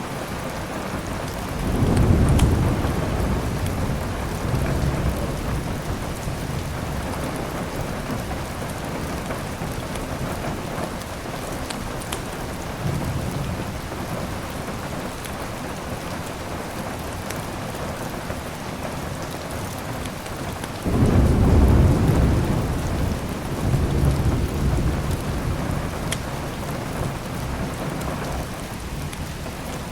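Steady heavy rain with two rolls of thunder, one about two seconds in and a louder one about twenty-one seconds in, each rumbling for a few seconds before fading. A few faint sharp crackles sound now and then.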